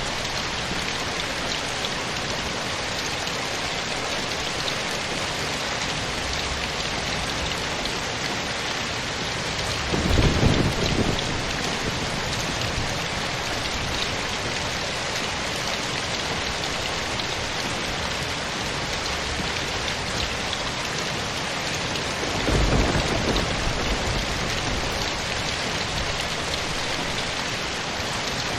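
Steady rain falling, with two low rumbles of thunder, one about ten seconds in and a longer one about two-thirds of the way through.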